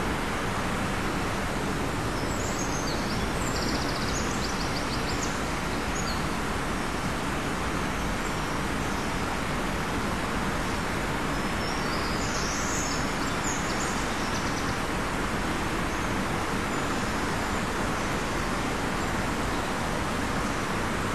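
Steady, loud outdoor noise haze. Over it come two short bouts of high-pitched bird calls, each a rapid run of chirps: one about two seconds in, the other about eleven seconds in.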